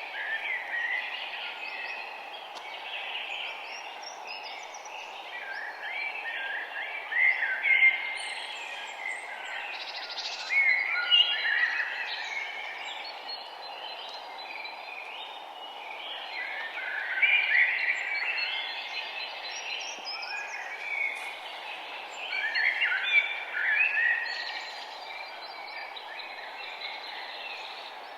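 Many songbirds chirping and calling in overlapping bursts that swell and fade every few seconds, over a steady background hiss.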